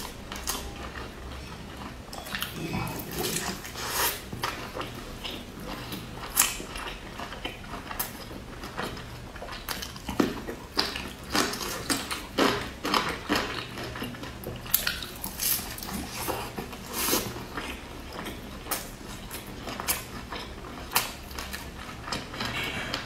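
Close-up eating sounds: a crisp pan-fried stuffed flatbread being torn by hand and chewed, with many irregular crackling crunches from the crust.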